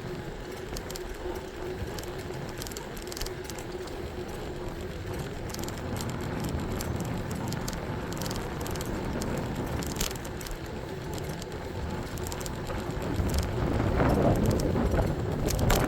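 E-bike riding along: steady rolling and road noise with a faint steady hum and scattered light clicks. It grows louder in two swells near the end.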